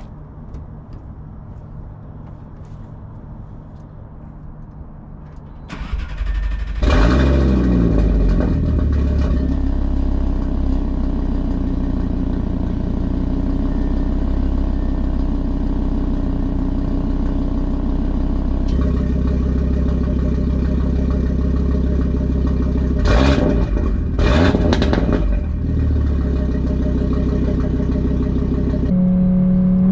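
2018 Audi RS3's 2.5-litre turbocharged five-cylinder is cranked and catches about six seconds in, flaring up and settling into a steady idle through a custom 3.5-inch downpipe and AWE SwitchPath exhaust. A couple of short louder bursts come near the end.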